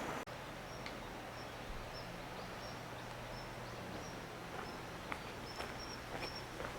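Outdoor ambience with short, high chirps of a small bird or insect repeating every half second or so over a steady low hum.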